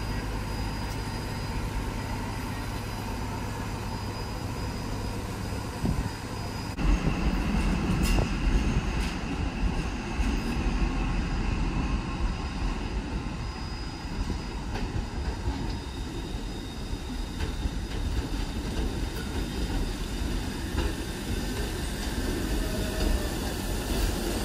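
Train running on the rails: a steady rumble that gets suddenly louder and heavier about seven seconds in.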